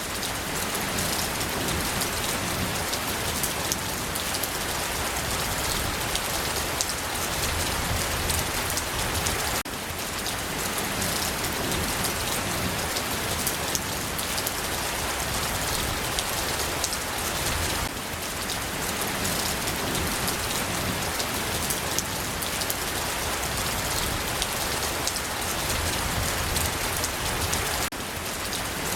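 Steady rain falling, an even hiss of drops with brief slight dips in level about every nine seconds.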